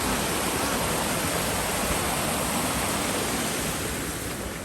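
Rushing river water, a steady wash of noise that eases slightly near the end; the river is running full after the rain.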